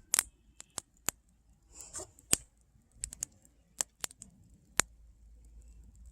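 A run of sharp, irregular clicks, about a dozen over six seconds, each very short, with a brief faint rustle about two seconds in.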